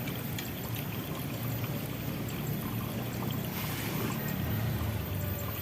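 Steady rushing of running water, with a brief louder hiss a little past halfway.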